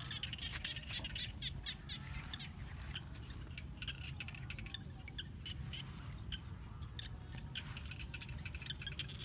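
Small birds chirping, a rapid run of short, high calls that comes in clusters, over a steady low rumble.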